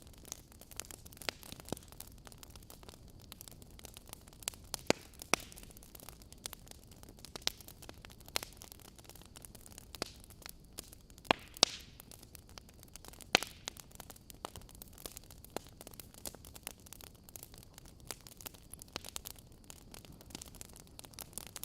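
Wood fire burning in a fireplace: irregular sharp crackles and pops from the logs over a low, steady hiss.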